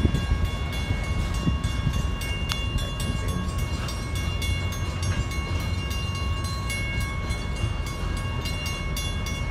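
Freight train of tank cars and covered hoppers rolling through a grade crossing: a steady low rumble of wheels on rail, with faint steady high tones above it.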